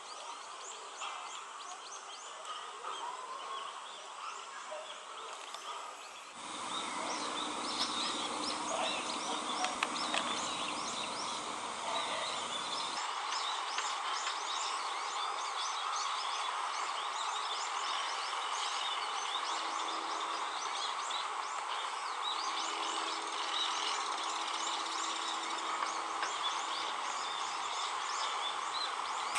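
Many small birds chirping busily, short high calls overlapping without pause, over a steady background hum of the surroundings; the chirping grows denser and louder about six seconds in.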